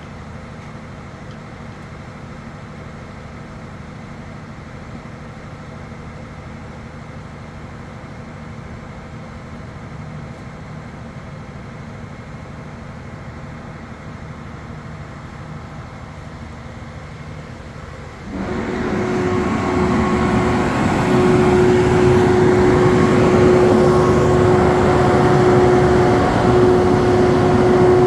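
A steady low machine hum, then about eighteen seconds in a louder machine starts up suddenly and runs on with a broad rushing noise and a steady whine.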